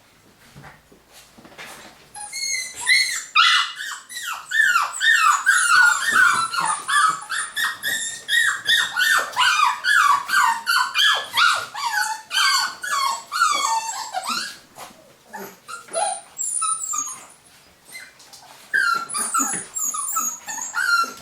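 A litter of Cavapoo (Cavalier King Charles spaniel × poodle) puppies whimpering and yelping together in many short, high-pitched, falling cries. The cries crowd thickly from about two seconds in, thin out after about fifteen seconds, and come in a last flurry near the end.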